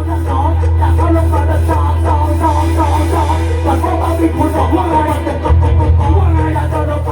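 Loud Thai party music with singing and heavy bass, played through a rot hae sound truck's speaker stacks.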